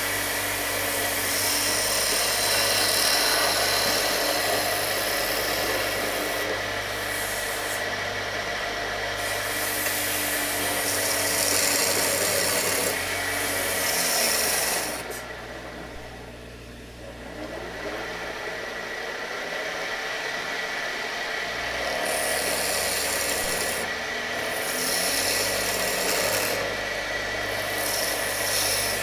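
Wood lathe running with a cutting tool shaving a spinning shovel-handle blank, a steady motor hum under rough scraping of wood. About halfway through, the cutting stops for a few seconds, leaving only the machine hum, then resumes.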